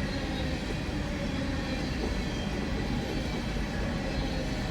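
Loaded CSX coal train rolling past: a steady rumble of wheels on the rails, with no horn or single knocks standing out.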